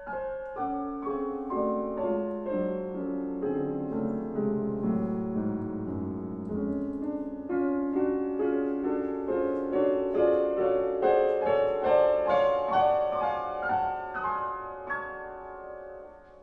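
Piano playing a flowing passage of many quick notes, the lower line stepping downward at first, then busier higher figures, dying away near the end.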